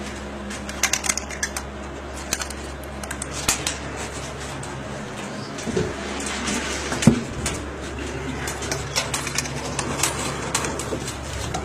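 Racing pigeons in a loft: scattered irregular clicks and taps, with faint pigeon sounds, over a steady low hum.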